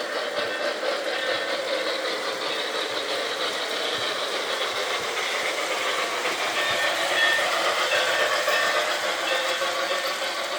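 Model train running on its track: a steady whirring and rattling of the small motor and wheels on the rails, with no deep rumble.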